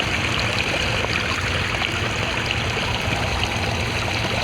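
Steady splashing and trickling of water from the waterfalls of a backyard koi pond.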